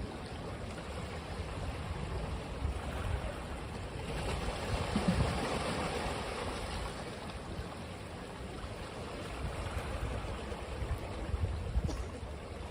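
Ocean waves washing onto a beach, one wave swelling and breaking about halfway through, with low wind rumble on the microphone.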